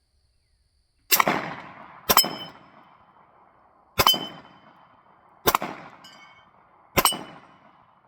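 Five gunshots, irregularly spaced over about six seconds, each answered by the clang and ring of a steel plate on a Texas Star target being hit.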